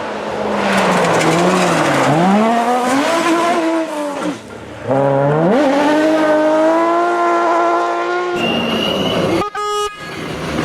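A rally car's engine at full attack, its revs falling and rising through gear changes. Its pitch dips briefly about four seconds in, then climbs and holds high, and the sound changes abruptly a little after eight seconds.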